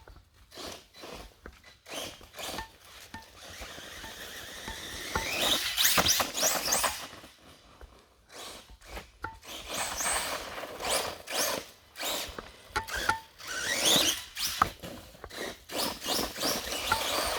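Electric motor of a 1/10-scale RC monster truck on a 4S Spektrum power system whining up in pitch as it accelerates, once about a third of the way in, then in repeated bursts through the second half.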